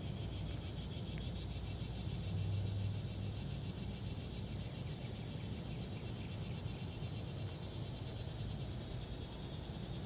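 Insects buzzing steadily in a high, rapidly pulsing drone, over a low steady rumble that swells briefly about two seconds in.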